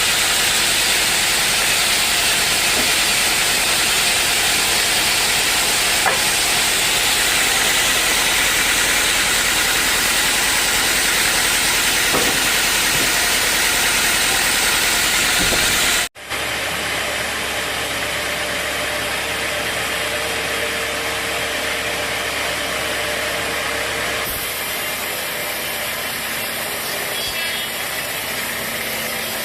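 Sawmill saw running, a steady loud hiss while it cuts through a mahogany log. About halfway through the sound cuts off abruptly and is replaced by quieter, steady machine running with a faint hum.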